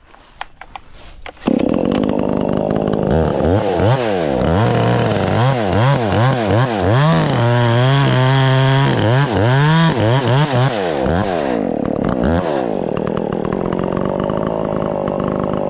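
Two-stroke chainsaw cutting the back cut in a black locust trunk. It comes in loudly about a second and a half in, then its engine speed swings up and down over and over as the chain works through the wood, holding high for a couple of seconds in the middle before settling steadier near the end.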